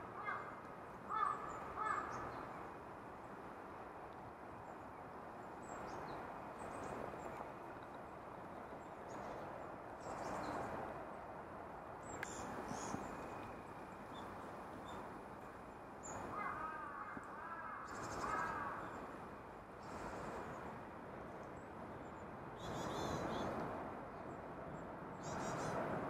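Wild birds calling outdoors: a run of short repeated calls at the very start and again about two-thirds of the way in, over a steady background hum.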